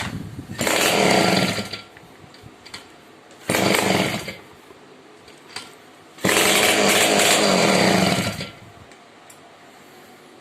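Sh-58 two-stroke moped engine being kick-started three times: it catches and runs for about a second, then a second, then about two seconds, cutting out each time. It fires but will not keep running after its restoration.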